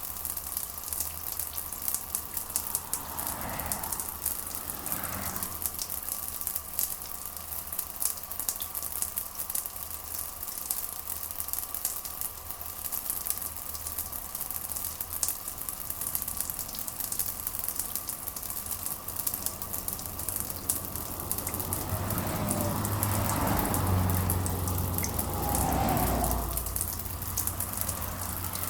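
Steady rain with a dense patter of drops. Twice a low rumble swells and fades: briefly a few seconds in, and longer and louder near the end.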